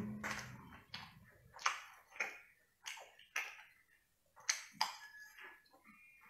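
Close-up chewing of fried silkworm pupae: a string of short, sharp crunches at an uneven pace, about two a second. A metallic ring, from the spoon against the steel plate, fades out at the start.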